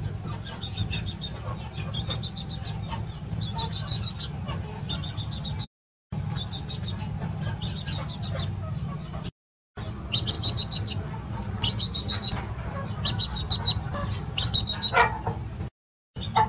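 Birds chirping in short, rapid trills repeated every second or so, over a steady low hum. The sound cuts out completely for a moment three times.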